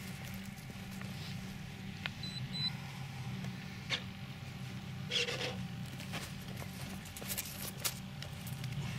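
Seagull Tucano r/c model plane's engine running steadily at low volume, with scattered sharp clicks and a brief rustle of handling about five seconds in.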